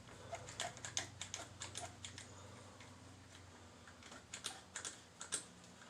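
Clamps being fitted and tightened on a part: a run of small, irregular metal clicks and taps, thickest in the first two seconds and again near the end, over a faint low hum.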